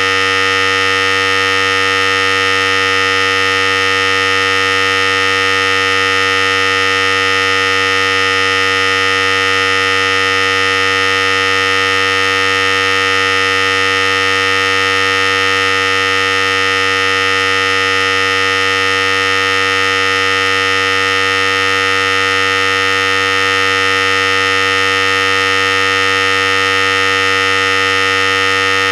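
Philips Series 5000 hair clippers running continuously, a steady, unchanging electric buzz.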